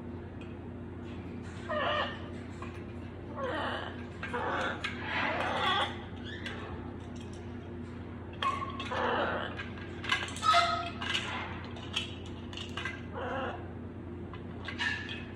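Baby parrots making short, irregular squawks and chirps, some with brief whistled notes, over a steady low hum.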